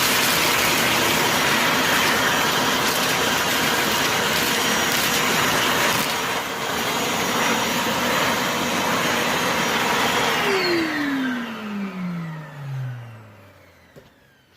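Dexter Power 20-litre 1400 W construction vacuum cleaner running steadily, then switched off about ten seconds in. Its motor winds down with a falling whine over about three seconds.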